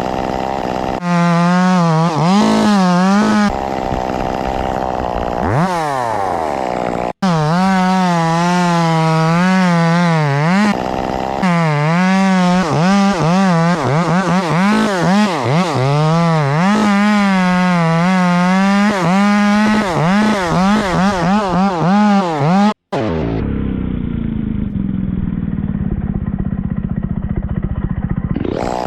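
Chainsaw engine running at high revs, its pitch wavering up and down as it works. The sound cuts off abruptly twice, and the last few seconds are duller, with the pitch falling.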